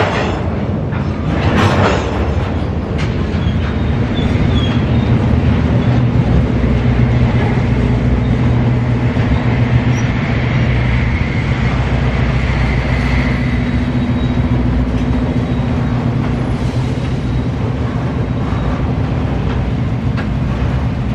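CSX freight train passing, a steady low rumble with wheel and rail noise.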